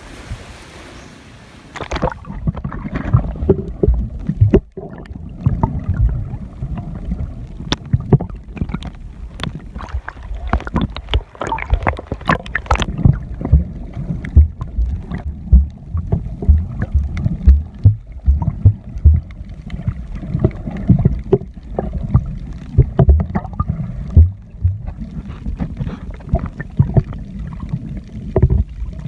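Sea water sloshing in surf with wind on the microphone. About two seconds in the high end drops away and the sound turns muffled, with sloshing, gurgling and many irregular knocks and splashes: the microphone dipping under the sea surface.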